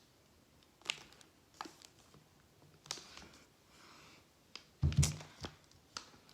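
Firework packages being handled and set down: a series of light clicks and knocks, with a heavier thump about five seconds in.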